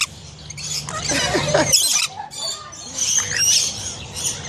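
Small parrots squawking and chattering close by, with many short, shrill calls overlapping.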